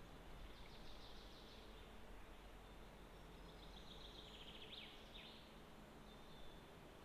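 Faint birdsong in near-silent open country: a quick trill about half a second in, then a longer phrase of rapid notes ending in a few quick downward sweeps about five seconds in.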